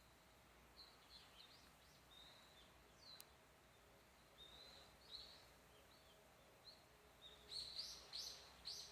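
Songbirds chirping faintly in short, high, scattered calls, with a louder run of calls near the end. A single sharp click about three seconds in.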